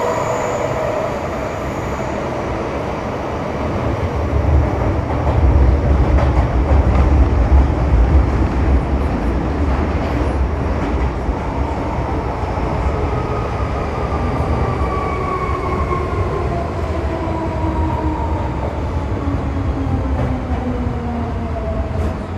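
Metro Cammell M-Train electric multiple unit running, heard from inside the car: a steady wheel-and-rail rumble, heaviest between about 4 and 9 seconds in. Over it the GEC GTO chopper and traction motors whine in several tones, and these fall steadily in pitch through the second half as the train slows.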